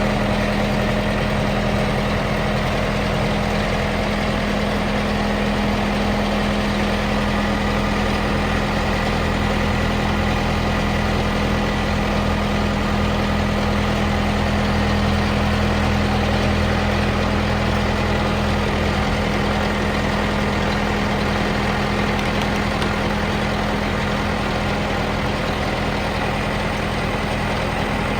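Case 1845C skid steer loader's four-cylinder diesel engine running steadily at an even speed, with no revving.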